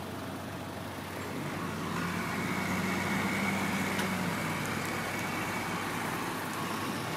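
Road traffic: a motor vehicle running, growing louder about two seconds in and easing off a few seconds later.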